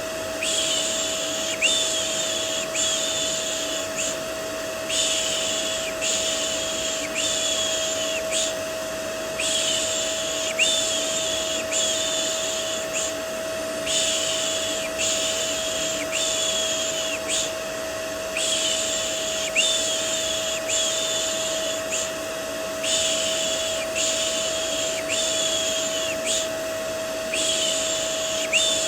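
Rhythmic "shh" shushing, a hissing shush a little more often than once a second, in runs with short pauses, laid over the steady running of a vacuum cleaner with one constant whine. It is white noise for soothing a baby to sleep.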